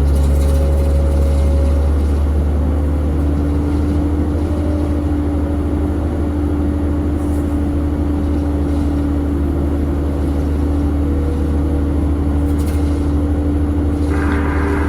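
Jet airliner engines running at idle: a steady low rumble with a steady humming tone.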